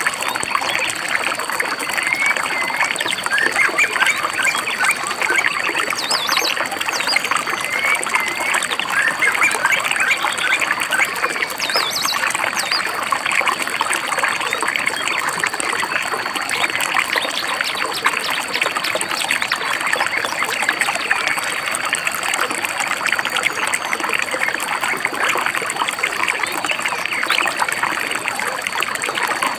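Babbling stream trickling steadily over stones, with small birds chirping over it and a few brief higher calls about six and twelve seconds in.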